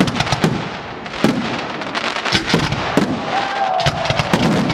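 Aerial fireworks display: shells bursting in quick, irregular bangs over a dense, continuous crackle.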